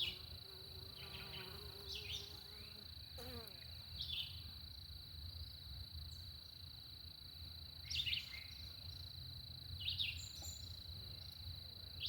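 Outdoor insect and bird sounds around a beehive: a steady high-pitched insect trill throughout, and a short falling bird call about every two seconds, the loudest sounds here. A honeybee buzzes near the microphone at the start, and its buzz drops in pitch as it flies off about three seconds in.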